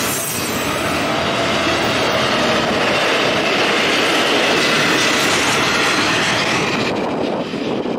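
CSX double-stack intermodal freight cars rolling past at track speed, with steady loud wheel-on-rail noise that eases off near the end as the last cars go by.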